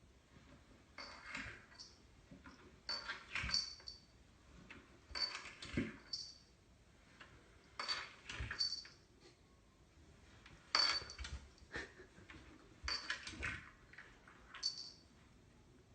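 A cat going down stairs one step at a time, with a soft bump and scuff about every two seconds, each with a light metallic clink.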